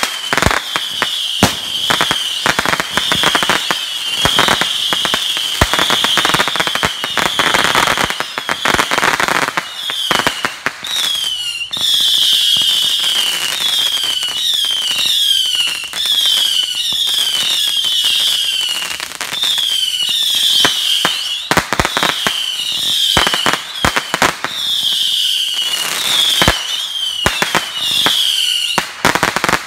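Fireworks going off nonstop: a dense run of cracks and pops, over a high whistling tone that falls in pitch and repeats about every second.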